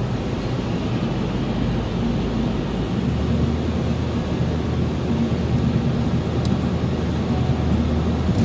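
A car driving, with steady engine and tyre noise heard from inside the cabin. A low hum comes in about three seconds in.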